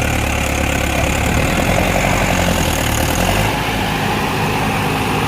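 Tractor diesel engine running steadily, its low rumble easing a little about three and a half seconds in.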